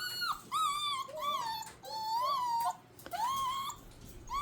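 Six-week-old puppies whining in a rapid string of short, high-pitched whines, with one longer drawn-out whine about two seconds in.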